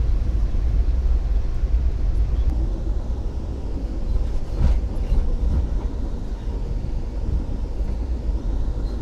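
Passenger train running at speed, a steady low rumble heard from inside the coach, with a single sharp knock about halfway through.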